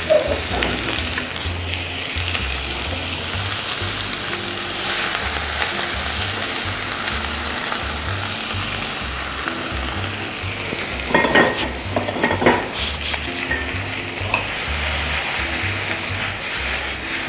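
Prawns and diced bell peppers sizzling steadily in a hot pan as the peppers are scraped in and stirred. A few sharp clattering knocks of spatula and pan come about two-thirds of the way through.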